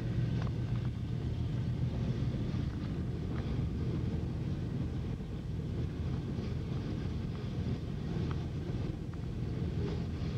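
Freight train of tank cars and covered hopper cars rolling past close by: a steady low rumble of steel wheels on the rails, with scattered light clicks.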